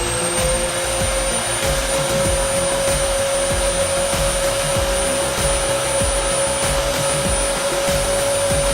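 Cayken KCY-130/3WDO magnetic drill's 2690 W motor running steadily at full speed, with a steady high whine. It comes up to pitch just after the start and holds there.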